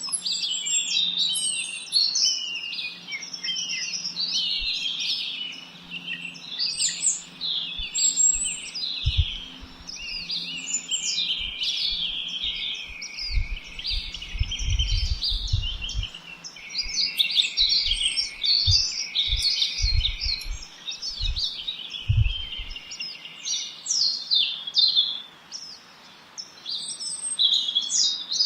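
Several small songbirds chirping and trilling at once, a dense unbroken chorus of short, quick high notes. Intermittent low rumbles come in under the birdsong from about a third of the way in until about three quarters through.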